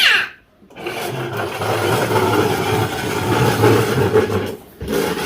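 A small electric motor, apparently a child's ride-on toy vehicle, running steadily with a low hum. It cuts out briefly just after the start and again shortly before the end.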